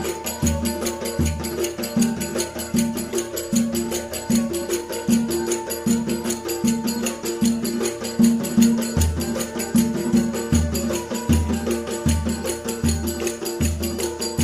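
Live Turkish folk dance music: a davul-type bass drum beats a steady rhythm about once a second under a held melody line, with fast, busy higher percussion.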